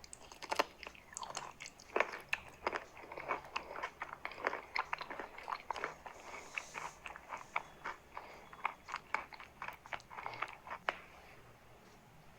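Close-up mouth sounds of chalk being bitten and chewed: a dense, irregular run of short, crisp crunches.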